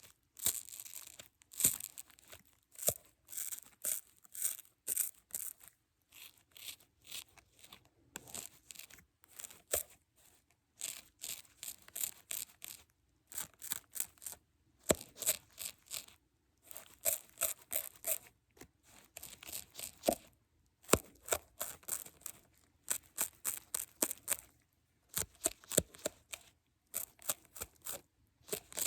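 Close-up crisp clicking, scratching and crinkling, in quick clusters of several small sharp sounds a second, with short pauses between.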